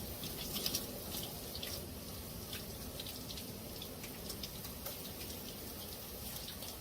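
Water spraying from the handheld shower head of a portable propane tankless water heater, a steady hiss of spray with scattered irregular splashes and drips.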